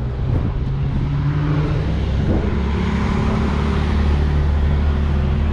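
A car engine running steadily at a low idle, its pitch shifting slightly about two seconds in.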